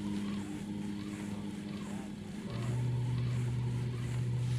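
Boat motor running with a steady hum, its pitch stepping down to a lower steady hum about halfway through as it is throttled back.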